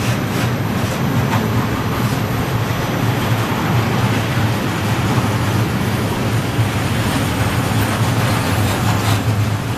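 Freight train of open coal wagons rolling past: a steady rumble of wheels on rail, with a few light clicks and a brief sharper sound near the end.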